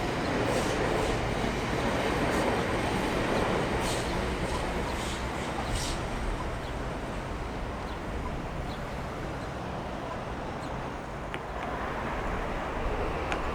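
A train running past with a steady rumble and rail noise, loudest over the first few seconds, easing off, then building again near the end.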